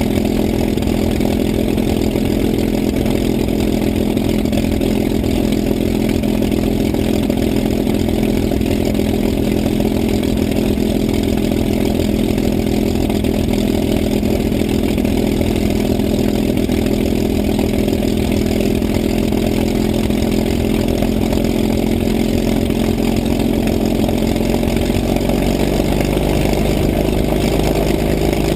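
P-51 Mustang's V-12 piston engine running steadily at a low, even idle, its pitch shifting slightly near the end.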